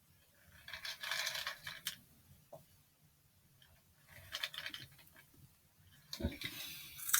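Dry Kix cereal puffs rattling and spilling as they are tipped out in three bursts, with a dull thump about six seconds in.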